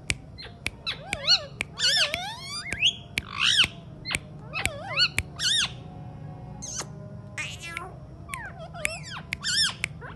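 Alexandrine parrot squawking and chattering in a quick run of short, high calls that swoop up and down in pitch, with sharp clicks between them.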